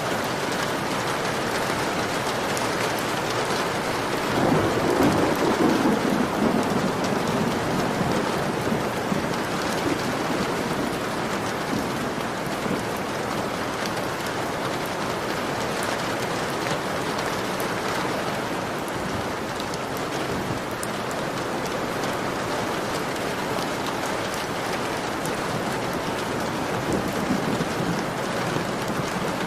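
Heavy rain pattering steadily on a window, with a low rumble of thunder swelling up about four seconds in and a fainter rumble near the end.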